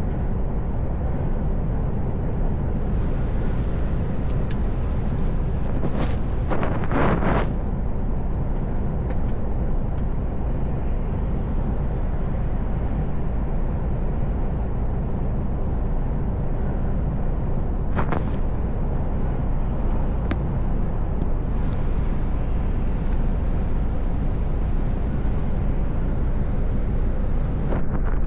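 Mercedes-Benz Actros L truck under way on the road: a steady low rumble of engine and tyres, with brief louder whooshes about six seconds in and again around eighteen seconds.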